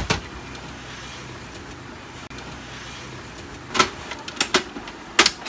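Sharp plastic clicks and knocks from a Canon LBP 6030 laser printer's top cover being unclipped and lifted off: one click at the start, then four in quick succession about four to five seconds in.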